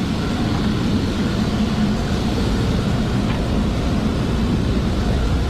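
Chiller cooling-water pump running steadily under power after repair, a constant machine hum over even mechanical noise.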